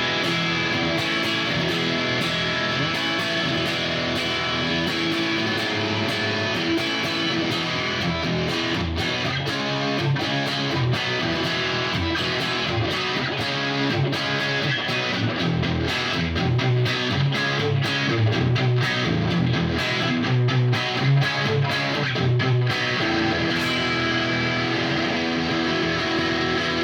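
Fender American Vintage '62 Custom Telecaster electric guitar played through an amp, mixing chords and single notes with sharp picked attacks. The playing gets louder past the middle with a run of heavy low-string notes, then eases back near the end.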